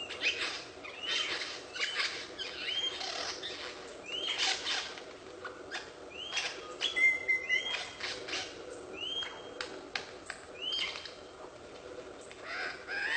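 A bird giving repeated short chirps that rise and fall in pitch, irregularly about once every second or two, over scratchy rustling noises.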